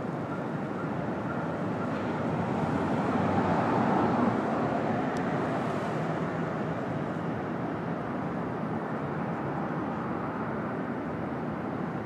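A train passing, its rumble swelling to a peak about four seconds in and then slowly fading.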